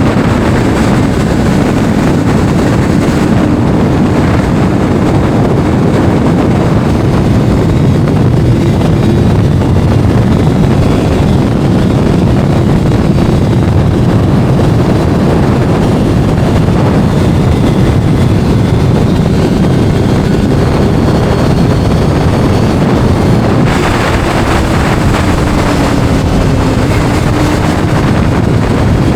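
Sport motorcycle engine running at speed, mixed with heavy wind noise on the microphone; its pitch drifts slowly up and down, and the sound gets brighter about three-quarters of the way through.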